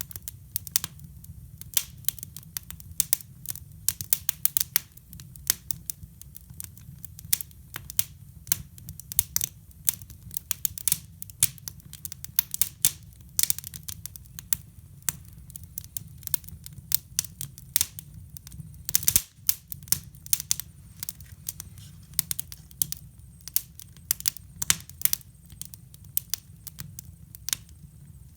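Wood fire crackling in a hybrid fireplace: many irregular sharp pops and snaps over a steady low rumble.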